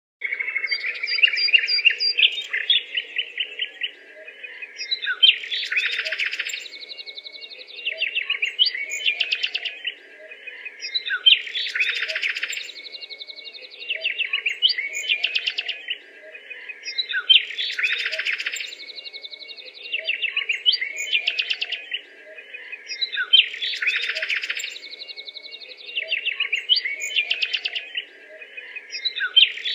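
Birds chirping and twittering in rapid trills, in a pattern that repeats about every six seconds.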